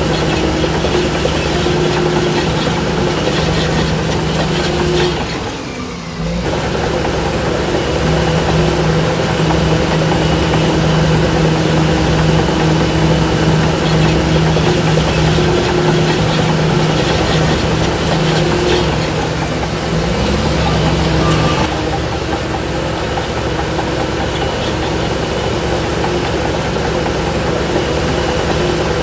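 Heavy earthmoving diesel engine running steadily. The sound drops out briefly about six seconds in, then comes back, and its tone shifts around twenty-two seconds.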